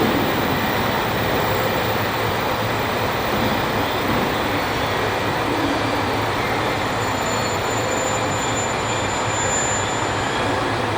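Aoimori Railway electric train running into the station with a steady rolling noise, and a thin high whine from about seven seconds in that stops shortly before the end.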